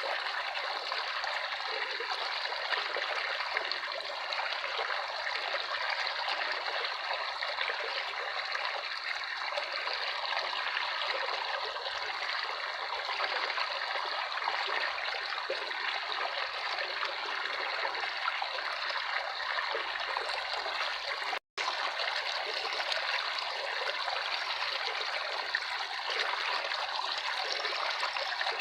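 Running water trickling and splashing steadily, like a small stream, with no music. The sound cuts out completely for a split second about two-thirds of the way through, then resumes unchanged.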